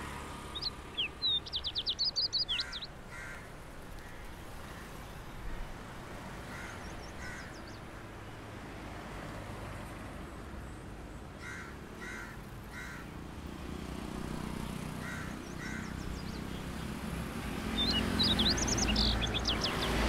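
Birds calling: short calls in pairs recurring every few seconds, with a fast run of high chattering notes about a second in and again near the end. A low rumble builds toward the end.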